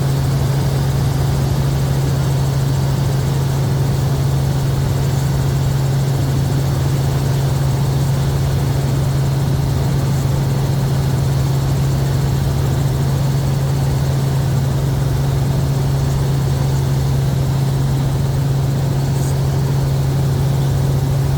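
Helicopter in flight, its engine and rotor giving a loud, steady, unbroken drone heard from inside the cabin.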